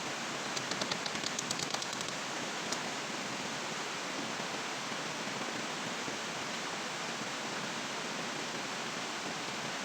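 Steady hiss of heavy rain, with a quick run of light clicks in the first two seconds and one more a little later.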